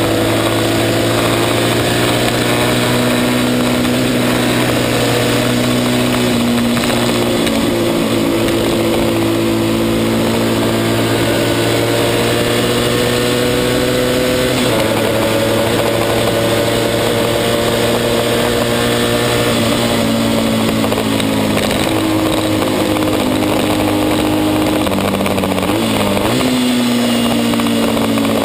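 Racing motorcycle engine running hard at high revs, heard from on the bike. The pitch holds high with slow rises and falls, jumping abruptly about halfway through and dipping then climbing again near the end, as the rider changes gear.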